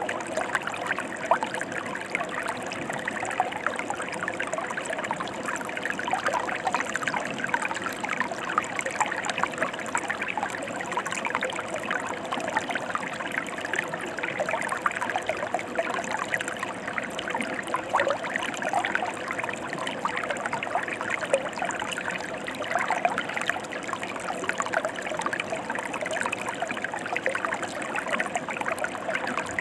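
Mountain stream flowing, a steady rush of water with many small splashes throughout.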